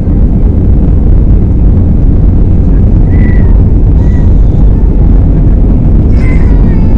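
Loud, steady rumble inside the cabin of an Airbus A320-214, its CFM56 jet engines and the airflow heard from a window seat, with a couple of faint short high tones about three seconds in.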